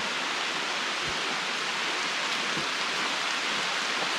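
Heavy summer rain pouring down in a thunderstorm shower, a steady even hiss.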